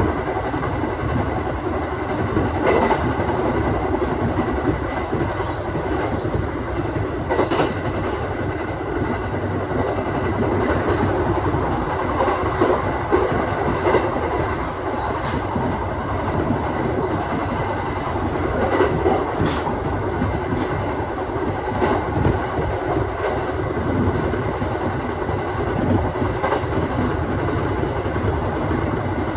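Aoimori Railway 701 series electric train running steadily along the line, heard from inside the leading car: a continuous rumble of wheels on rail, with occasional sharp clicks as the wheels cross rail joints.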